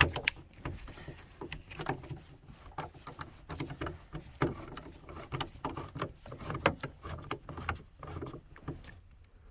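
Phillips screwdriver backing out door-panel screws on a 1990 Dodge Grand Caravan, with irregular small clicks and knocks of the tool, screws and plastic trim; a sharper knock at the very start.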